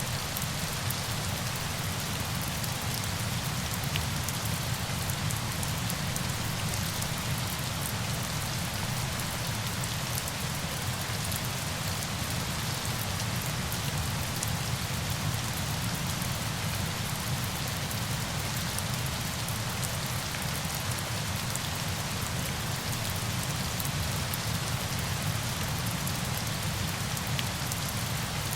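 Steady rain falling, an even hiss with fine pattering drops that never lets up.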